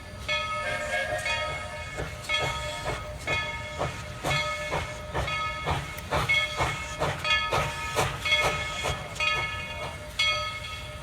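Steam locomotive working with a steady beat of exhaust chuffs, about two to three a second, over hissing steam.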